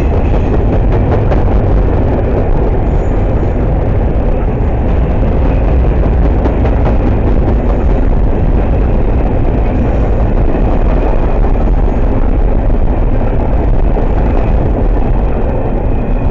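A train rolling past close by at speed: a loud, steady wheel-on-rail noise with many sharp clicks of wheels over rail joints. The noise begins to fade at the very end.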